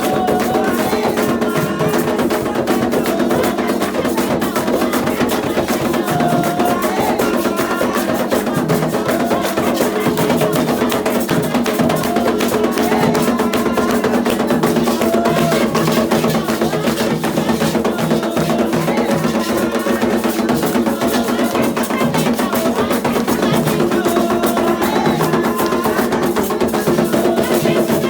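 Candomblé ritual percussion: atabaque hand drums playing a fast, dense rhythm with a wooden or bell-like clicking part, over held, chanted voices.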